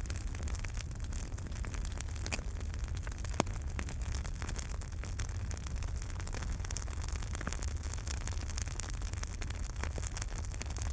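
Fireplace wood fire burning with a steady low rumble and frequent sharp crackles and pops of the logs, a louder pop about three and a half seconds in.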